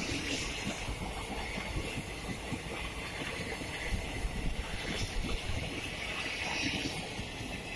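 Passenger coaches of an Indian express train rolling past on the rails: a steady rumble and rush, with irregular clicks and knocks from the wheels.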